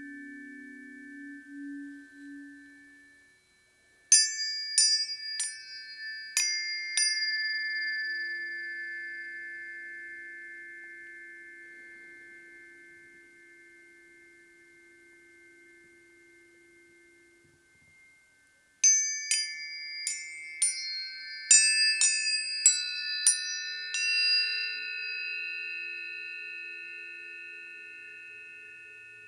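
Planetary tuning forks being struck in two quick runs of taps, about four seconds in and again about nineteen seconds in. Each tap is followed by several high tones that ring together and slowly fade. A lower fork tone dies away in the first few seconds.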